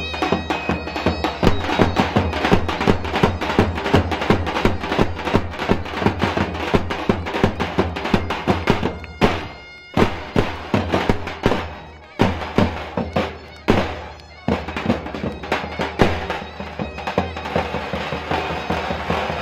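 Live Kurdish wedding band music: a held melody line over a fast, steady drum beat, with the beat dropping out briefly a few times past the middle.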